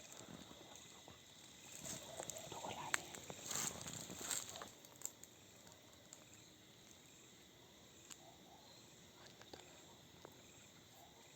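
Footsteps rustling through dry leaves and undergrowth in irregular bursts, with a sharp click about three seconds in. After about five seconds the rustling stops, leaving faint, steady insect chirring.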